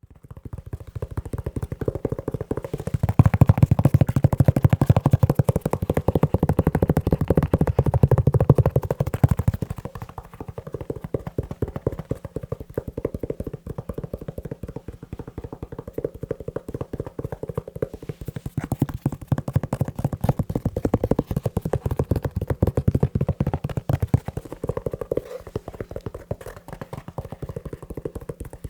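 Fast, continuous tapping on a leather shoe: a dense stream of quick, dull taps, louder in two stretches, early in the first half and again in the second half.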